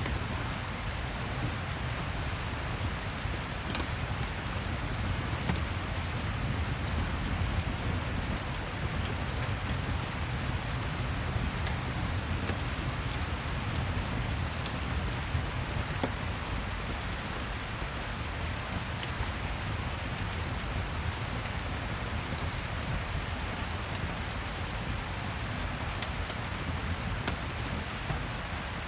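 Steady rain with the occasional crackle of a wood fire.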